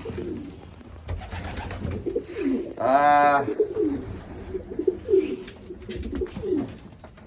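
Domestic pigeons cooing repeatedly in a loft, with a brief, louder drawn-out call about three seconds in.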